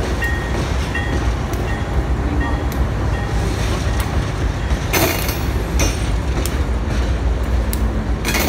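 Freight train's diesel locomotives passing close, engines running with a steady low rumble over the noise of wheels on the rails. There are sharp wheel clacks about five seconds in and again near the end.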